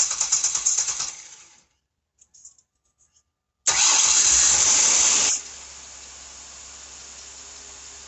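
Car engine being started: a loud rapid pulsing that dies away about a second and a half in, a pause, then a second start about three and a half seconds in that drops to a quiet, steady idle. The engine is running on an air-intake boot patched after rodents chewed through it, and it sounds pretty good.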